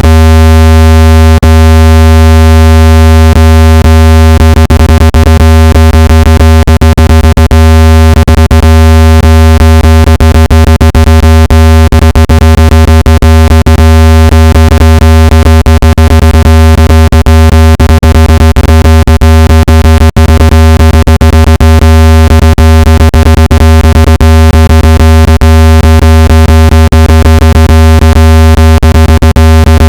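Speaker-cleaning tone played at full volume to drive water out of a phone speaker: a loud, steady, low electronic tone with many overtones. From about four seconds in, rapid irregular clicks cut through it.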